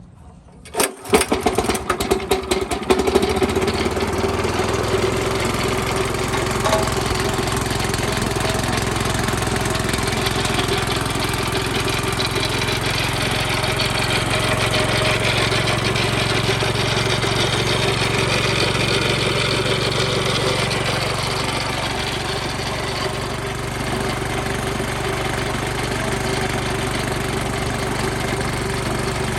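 Honda GX340 11 hp gasoline engine on a Smith concrete floor scarifier starting about a second in, running unevenly for a couple of seconds as it catches, then running steadily.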